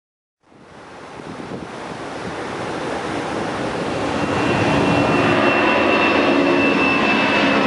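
Jet airliner's engines spooling up for the takeoff roll: a rush of noise that grows louder for about four seconds and then holds, with a high whine coming in about five seconds in. Storm wind on the microphone mixes with it.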